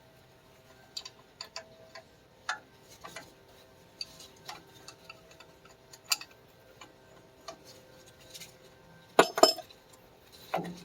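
Light, irregular metallic clicks and taps of hand tools and a bolt being worked on the tractor's front axle, then a couple of louder metal clanks about nine seconds in and a knock near the end.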